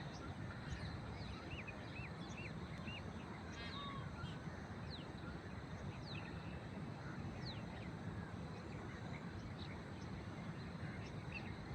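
Small birds chirping, with many short, quick chirps and sweeping notes scattered throughout, over a steady low rumble.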